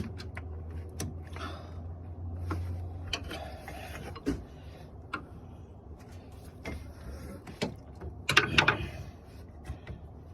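Hand tools and loose parts clicking, clinking and scraping as a car's front trim and fasteners are worked loose, with a low hum in the first few seconds and a short, louder rattling clatter about eight seconds in.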